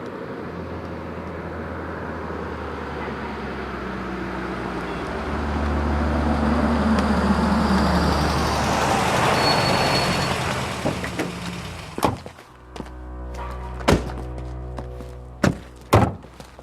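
Film soundtrack: low music and vehicle sound swell and fade, with a pitch that falls through the loudest part in the middle. Several sharp knocks follow in the last few seconds.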